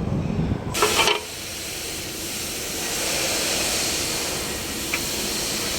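A brief, louder burst about a second in, then a steady hiss.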